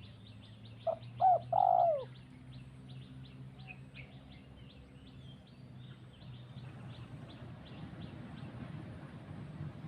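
A dove coos three times about a second in, over quick, high, repeated chirping from small birds. A low hum runs underneath for the first half.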